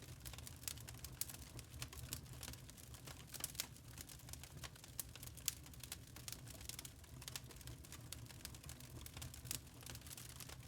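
Wood fire crackling in a fireplace: irregular sharp pops and snaps, several a second, over a low soft rumble of burning.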